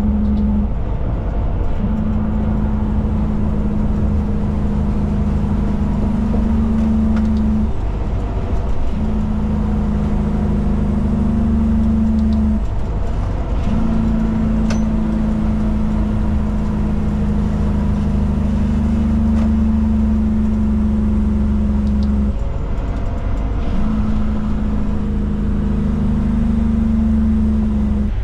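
Cummins diesel of a Kenworth K200 cab-over truck droning steadily inside the cab while driving on the highway. Its steady hum drops out briefly four times and comes back at the same pitch.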